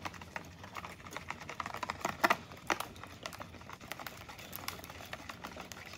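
Wire whisk beating eggs in a mixing bowl, a quick, irregular run of light clicks as the wires strike the bowl. The eggs are being tempered with a ladle of hot grits so they don't scramble.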